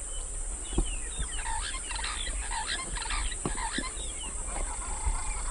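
Many birds calling at once, short overlapping chirps and squawks, over a steady high-pitched insect buzz.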